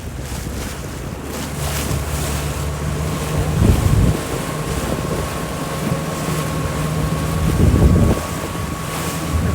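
Motorboat engine running steadily under way, with wind buffeting the microphone and water rushing past the hull. Twice, about four seconds apart, the water noise swells louder as the boat meets a wave.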